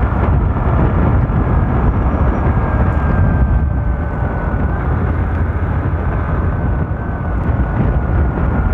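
Steady wind rush buffeting the microphone while riding a motorcycle, with a faint high whine underneath that drifts slightly in pitch.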